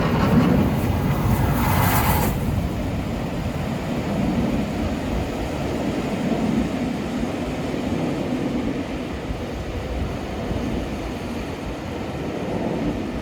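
A heritage railway train running past with a steady rumble, with a brief hiss in the first two seconds.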